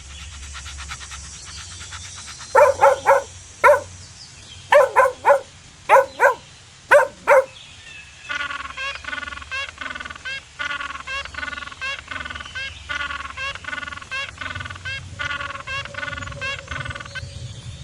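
Animal calls: loud short calls in clusters of two to four, then a rapid, even run of short calls about three a second.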